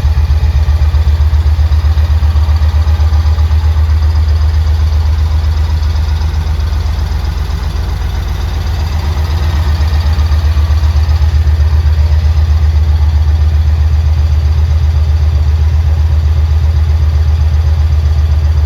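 Yamaha Stratoliner S's big air-cooled V-twin idling steadily with an even, lumpy low pulse. It grows a little quieter for a couple of seconds in the middle, then comes back up.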